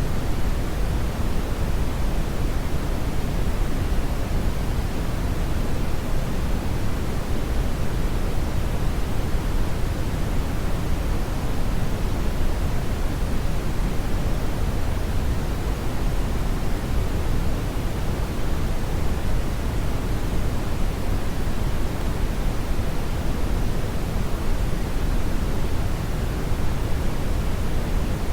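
Steady brown noise: an even, deep rushing hiss, strongest in the bass and falling away in the treble, without any change.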